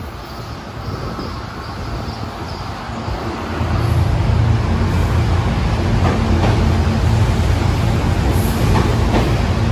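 A SEPTA Silverliner V electric multiple-unit train pulls in along the platform. It grows louder until the leading car reaches the microphone about four seconds in, then becomes a steady low hum of motors and rolling wheels, with a few sharp wheel clicks over the rails.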